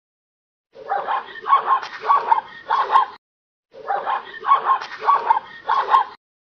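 A dog barking, twice in a run of about four barks, each run cut off into dead silence.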